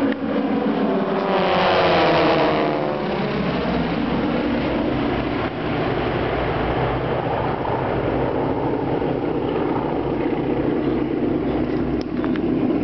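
A formation of aerobatic display aircraft flying past, the engine sound swelling loudest about two seconds in and dropping in pitch as they go by, then a steady engine drone as they fly away.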